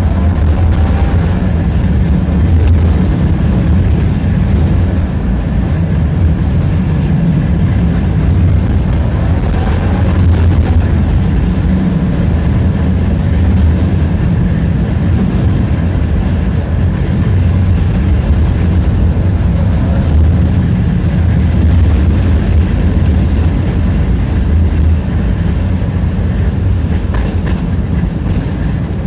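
Tram running on its rails, heard from inside the passenger car: a loud, steady rumble and clatter of the wheels on the track, with faint brief squeals near the start and about ten seconds in.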